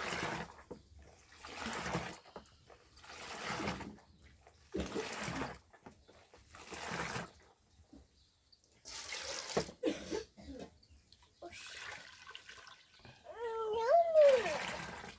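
Water sloshing in a run of separate bursts, each about a second long, coming roughly every one and a half to two seconds. Near the end comes a short, high, wavering call.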